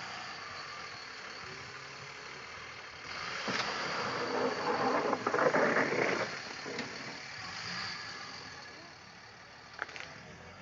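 Snow plow truck's engine running, with a loud rushing surge that builds from about three seconds in and dies away about three seconds later, then a sharp click near the end.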